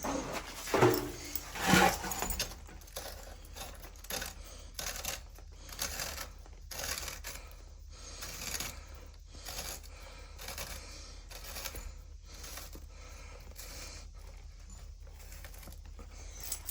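Irregular light knocks and small metallic clinks, with two louder thumps in the first two seconds: hands working the water valve and hose fittings to turn the water on.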